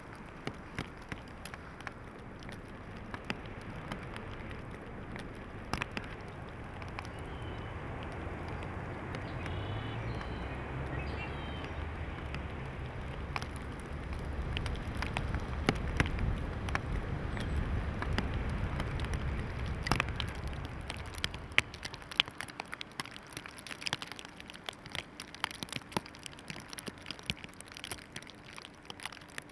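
Snowstorm ambience: a low rush of wind that swells through the middle and dies down about three-quarters of the way through. Many small ticks and crackles run throughout.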